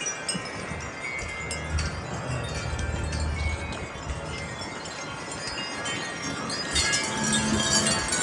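Wind chimes ringing over and over, their tones overlapping, tossed by strong gusty wind. The wind grows louder near the end as a gust comes through.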